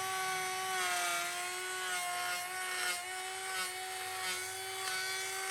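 Electric wood router running at full speed with a steady high whine, cutting a groove in a board, with light rasps of the bit in the wood about every 0.7 seconds in the second half.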